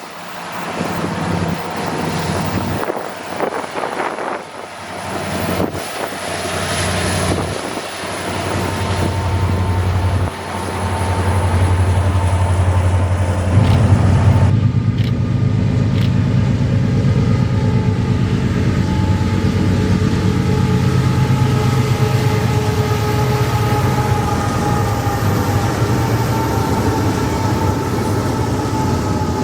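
Freight train's diesel locomotives approaching with a steady low engine hum that grows. About 14 s in it gives way to a louder rumble as the locomotives and cars pass.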